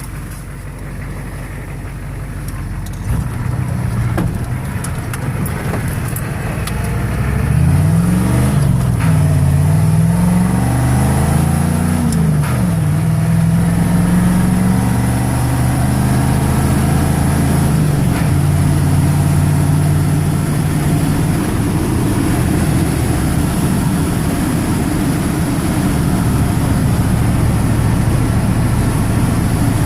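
1985 Ford truck's 6.9-litre diesel V8 engine running under way. Its pitch climbs and drops several times from about a quarter of the way in to past the middle as the truck accelerates, then holds at a steady cruise.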